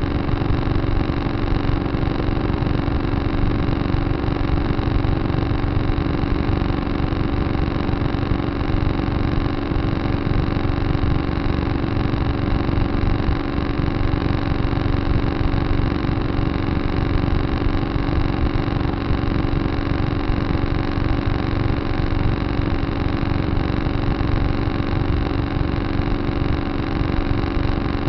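Tractor engine running at a steady speed, its pitch and loudness unchanging throughout.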